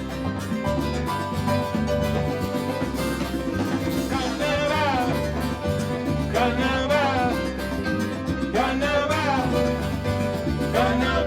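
A band playing an instrumental passage of a salsa song. A steady bass and rhythm run underneath, while a lead line plays four melodic runs that sweep up and down, about every two seconds from around four seconds in.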